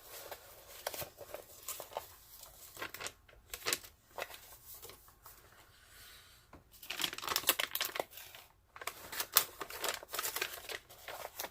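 Crinkling and rustling of a rolled diamond painting canvas being handled and flattened, in irregular bursts with a quieter lull around the middle.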